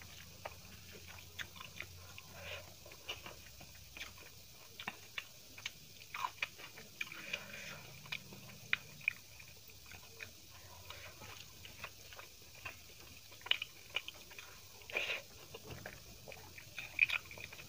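Chewing and eating sounds of chicken biryani eaten by hand: many short, irregular mouth clicks and smacks, the loudest near the end.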